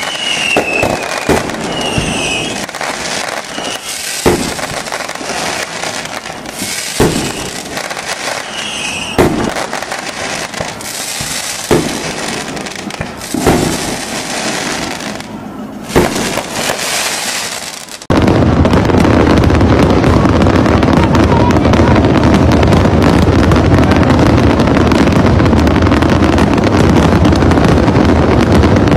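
Fireworks display: aerial shells bursting with sharp bangs about every two seconds, with whistles and crackle between them. About two-thirds of the way through this cuts off suddenly into a loud, steady rushing noise.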